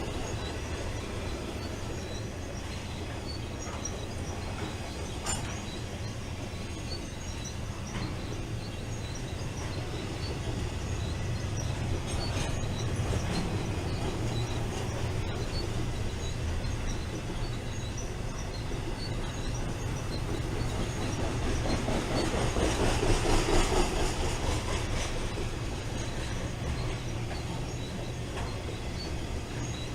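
BNSF intermodal freight train rolling past with a steady rumble of wheels on rail and occasional sharp clacks. It grows louder and rattles for a couple of seconds about two-thirds of the way through.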